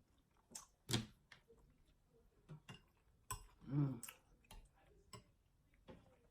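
Eating sounds: scattered small clicks and taps of a fork or spoon and mouth noises from someone eating shrimp and grits, with a brief hummed "mm" near the middle.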